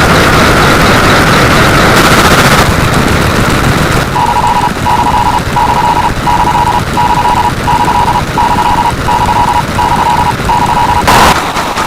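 A loud, rough roar of noise, then a regular series of electronic alarm-like beeps at about one and a half a second. A sudden loud burst cuts in near the end.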